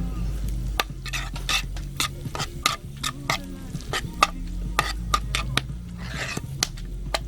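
Metal spatula scraping and clanking against a frying pan in quick irregular strokes while fried rice is stir-fried over a campfire.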